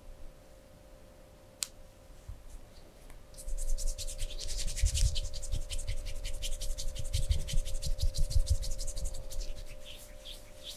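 Rapid scratching strokes that begin about three seconds in and ease off near the end, with a faint steady hum beneath.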